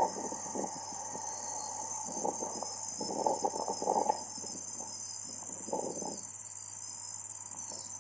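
Steady high-pitched insect chorus, with scattered soft knocks and rustles during the first six seconds.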